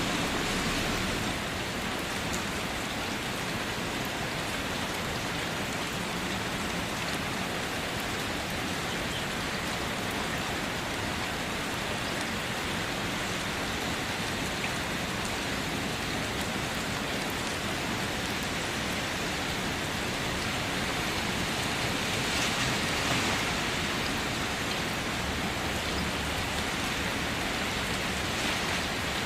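Steady rain falling on a car, a dense even patter of drops on the body, briefly a little heavier about three-quarters of the way through.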